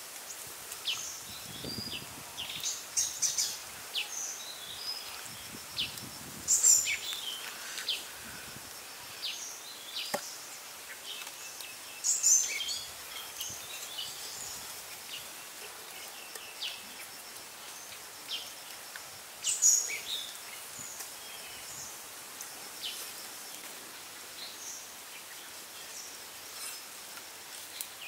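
Birds chirping in short, high calls at irregular intervals over a steady outdoor background hiss.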